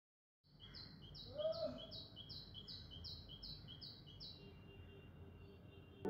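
A bird calling faintly, a fast even run of short high two-part notes, about two or three a second, that stops a little past four seconds in. A single lower, louder sliding sound comes about a second and a half in, over a faint background hiss.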